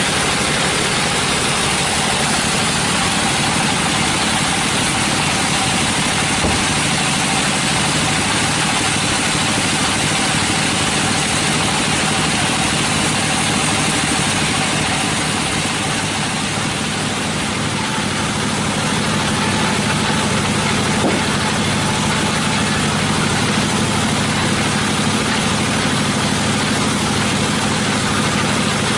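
Sawmill machinery running steadily, a continuous engine-like drone with a constant hiss and no breaks.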